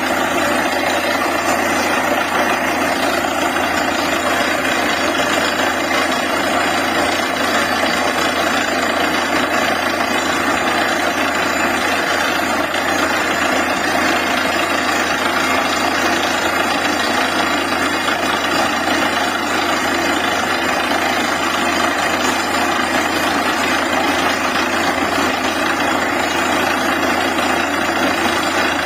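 DTH borewell drilling rig running steadily: a loud, even machine noise that does not pause or change.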